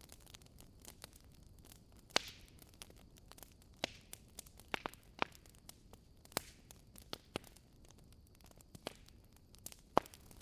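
Wood fire crackling in a fireplace: burning logs giving irregular sharp pops and snaps over a soft hiss, with a few louder pops about two seconds in and near the end.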